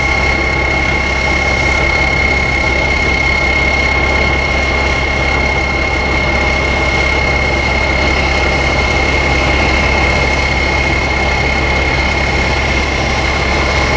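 Heavy diesel engine running at a steady speed, with a constant high whine over the low drone.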